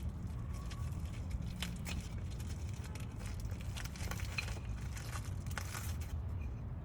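Scattered light clicks, crackles and rustling as brake pads and their packaging are handled, over a steady low rumble.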